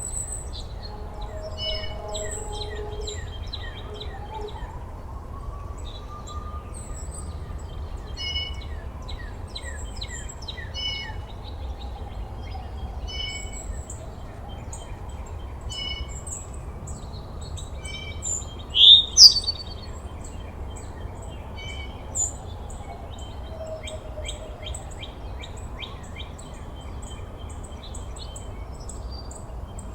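Several songbirds chirping and trilling in short repeated phrases, with one loud rising call about two-thirds through. A steady low rumble and a faint slow hum that rises and falls twice lie underneath.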